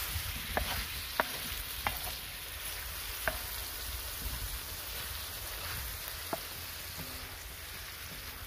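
Marinated chicken pieces with chopped onion, garlic and ginger sizzling in oil on a large tawa griddle as a wooden spatula stirs them, with several sharp taps of the spatula against the griddle. The chicken has just gone in to fry.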